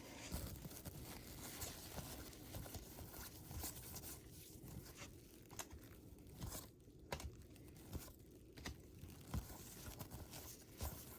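Faint rustling and crinkling of baseball card packs and cards being handled, with scattered small clicks and snaps as cards are flipped through.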